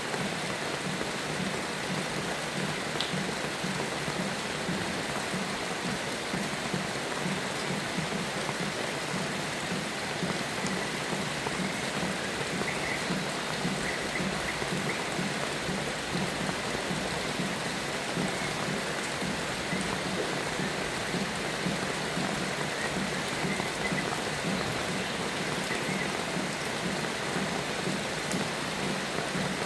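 Steady rainfall, an even hiss with no let-up, with a few faint, brief bird chirps here and there in the middle part.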